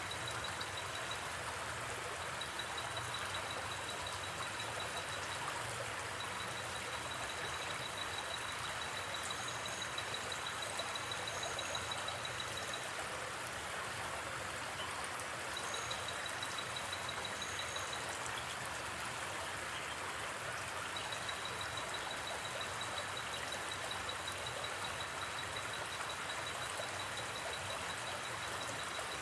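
Steady rushing of a gently flowing river. A night insect's high, rapidly pulsing trill comes and goes over it in long stretches.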